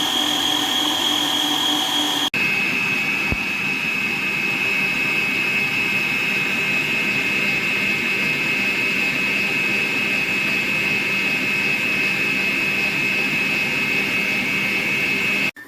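COOKLEE SM-1551 660 W stand mixer motor running at its top speed, 10: a steady high-pitched whine. It breaks off briefly about two seconds in, resumes at a slightly lower pitch, and cuts off suddenly near the end.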